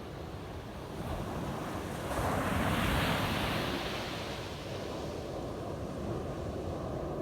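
Ocean waves breaking on a beach: a wave swells and washes in about two seconds in, then recedes, over steady surf hiss, with some wind noise on the microphone.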